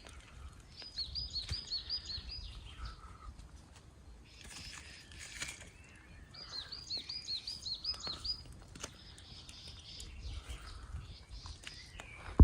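A songbird singing twice, each phrase a quick run of about seven high, repeated notes, with scattered sharp clicks and a low outdoor rumble between.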